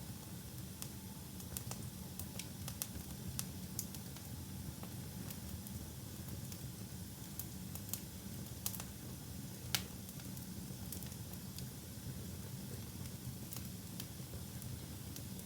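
Wood fire in a fireplace, burning with a steady low rumble and hiss and irregular sharp crackles and pops, one louder pop a little under ten seconds in.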